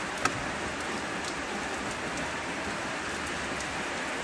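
Steady hiss of rain falling on the car, with faint scattered drop ticks and one sharp click a moment in.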